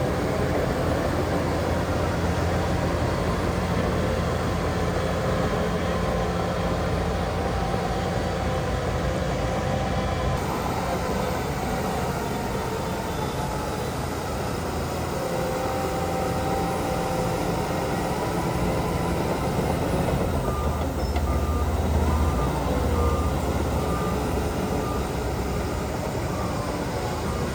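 Diesel engines of heavy earthmoving machinery (a bulldozer and dump trucks) running steadily. In the last several seconds a vehicle's reversing alarm beeps repeatedly.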